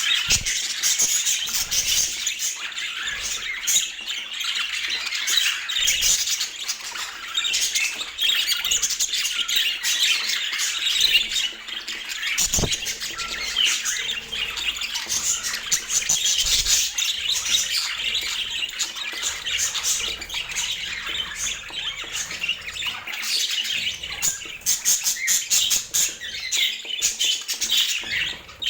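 Budgerigars chattering continuously, a dense stream of warbles, chirps and squawks.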